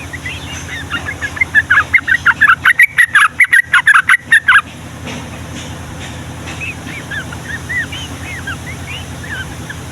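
Yellow-vented bulbul (trucukan) singing: a loud run of quick chattering notes from about a second and a half in to just past four and a half seconds, then softer, scattered notes.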